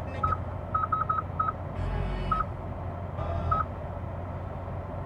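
Seven short, identical beeps at irregular intervals from the 2020 Hyundai Sonata's infotainment system, one for each press of a radio or touchscreen control. Under them is a steady low hum, and two brief bursts of noise come about two and three and a half seconds in.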